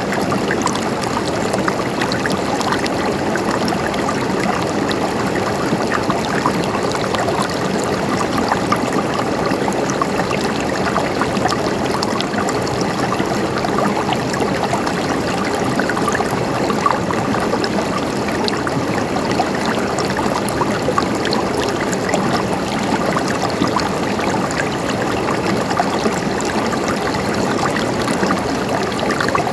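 Flowing water gurgling steadily, with many small splashes and trickles.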